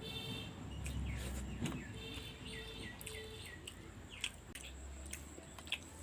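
Birds chirping in short calls, with a quick run of falling chirps about two seconds in. A few sharp clicks stand out near the end.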